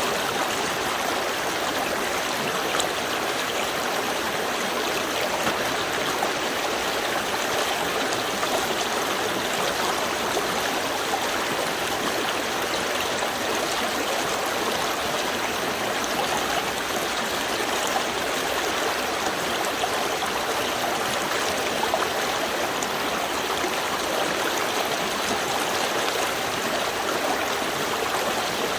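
Small river stream flowing: steady, even rush and babble of running water.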